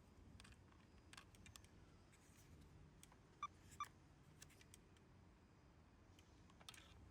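Near silence with faint room hiss and scattered small clicks; two sharper clicks come close together about three and a half seconds in.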